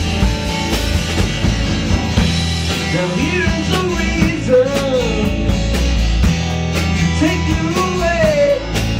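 Live band playing a rock song with guitar and a steady beat, and a singing voice that comes in twice, about three seconds in and again about seven seconds in.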